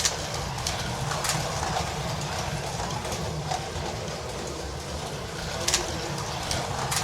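Carrera Digital 1/32 slot cars running laps on the track, their small electric motors and tyres making a steady whir, with a few sharp clicks.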